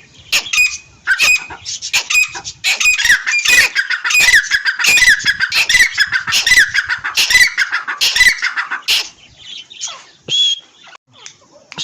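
A pair of teetar (francolins) calling loudly: rapid harsh repeated notes that build into a dense run for several seconds, then break off to a few scattered notes near the end.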